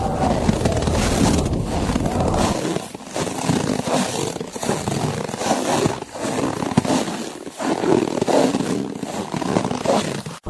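Footsteps crunching slowly through snow in an uneven rhythm, with short pauses between steps. A low wind rumble drops away about two and a half seconds in.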